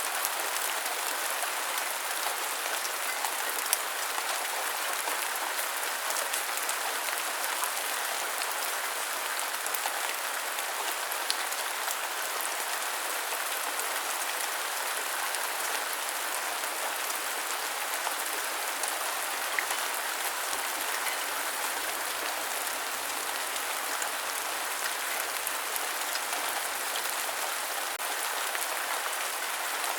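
Steady rain, an even hiss with a few sharper drop taps scattered through it.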